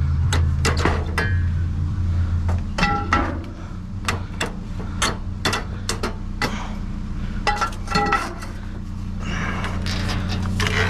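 Repeated metal knocks and clanks, some ringing briefly, as junk and computer cases are shifted around inside a metal dumpster. A steady low hum runs underneath, stronger for the first few seconds.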